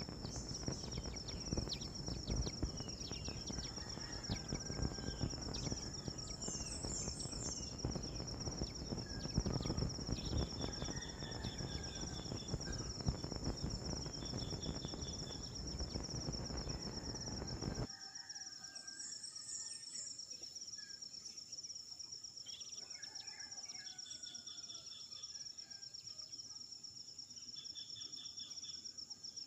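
Steady high-pitched insect trill, like crickets, with a second insect pulsing in short repeated runs and scattered short bird chirps. A low rumbling noise underneath cuts off abruptly about 18 seconds in.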